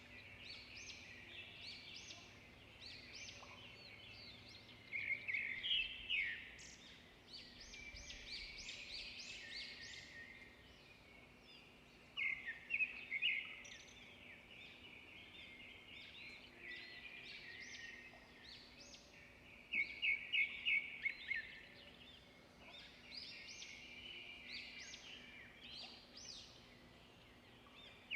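Several small birds chirping and singing at once, a steady chatter of short calls and trills, with louder quick runs of notes about five, twelve and twenty seconds in.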